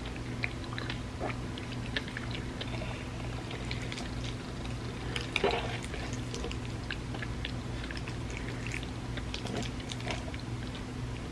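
Close-up chewing and mouth sounds of a person eating creamy rice pudding: many small soft clicks, with a louder one about halfway through. A steady low hum runs underneath.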